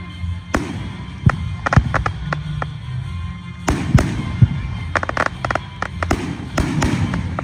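Fireworks bursting overhead: a string of sharp bangs and crackling pops, coming singly and in quick clusters throughout.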